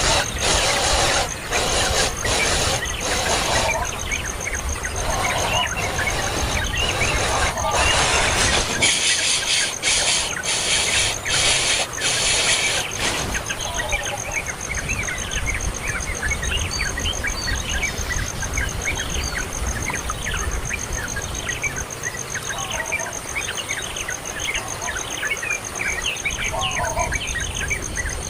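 Birds squealing and chirping: harsh, rapid noisy squeals for about the first half, then a run of quick falling chirps over a steady high-pitched whine.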